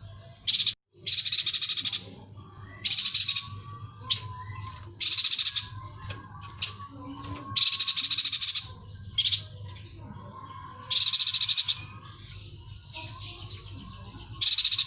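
A yuhina singing: short, high, buzzy trilled phrases, each under a second, repeated about every one and a half to two seconds, over a steady low hum.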